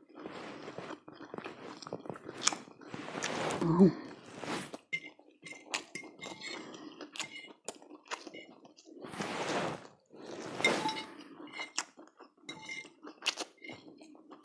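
Close-up chewing of a mouthful of spaghetti, with a metal fork clinking and scraping against the plate at irregular moments.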